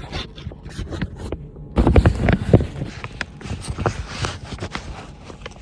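Rustling, scraping and knocking of someone moving and handling things in a cramped space, with a cluster of loud bumps about two seconds in.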